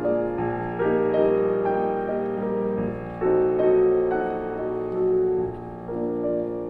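Background piano music: slow notes and chords over a sustained low accompaniment.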